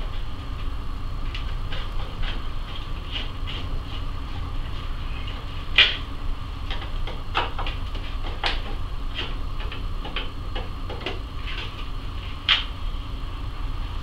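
Irregular light clicks and taps of a screwdriver working the screws of a scooter's front fender, with two sharper clicks about six and twelve and a half seconds in, over a steady low hum.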